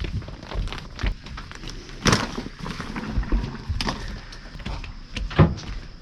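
Irregular knocks, clunks and clicks of things being handled and moved about, the loudest about two seconds in and again near the end.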